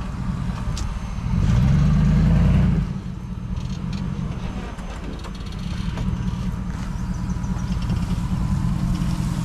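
Car engine running as the car is driven off-road through brush, with a burst of revs about a second and a half in that lasts about a second and a half, then settles back to a steady low running.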